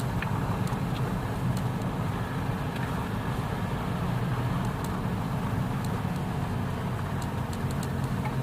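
Steady engine and road noise of a car driving, with faint light clicks here and there.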